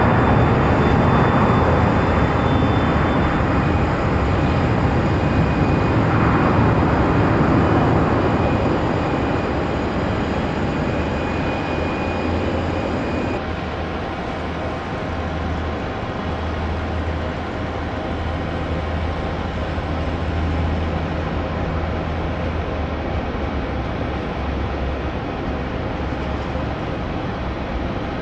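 Jet airliner's engines passing close, loudest early on and fading, with a high-pitched fan whine. About halfway through the sound changes abruptly to a steadier, quieter rumble.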